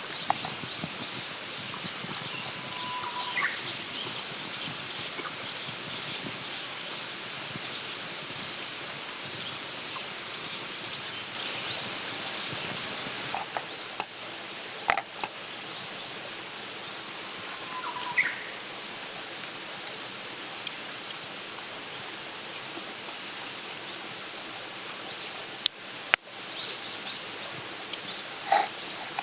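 Wood campfire crackling and popping over a steady hiss, with a few louder snaps partway through and near the end. Twice, a brief whistle-like note rises at its end.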